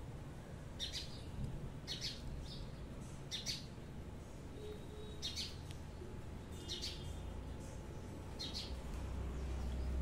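Short, high bird chirps, single and in quick pairs, about one a second. A low rumble builds near the end.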